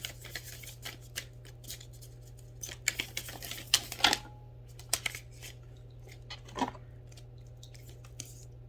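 A deck of reading cards being handled: a scattered run of sharp card flicks and taps, busiest about three to four seconds in, over a steady low hum.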